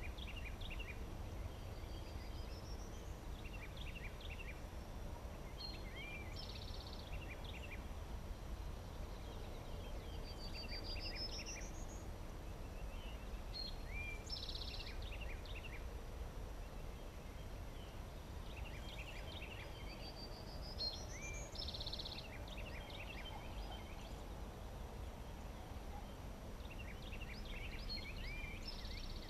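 Outdoor spring ambience: a bird repeats the same short, high song phrase of chips, a buzzy trill and a rising whistle about every seven seconds, over a low steady wind rumble.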